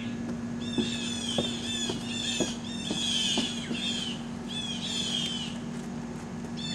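A bird calling over and over from the trees, short high chirps in quick runs, over a steady low hum, with a few soft knocks.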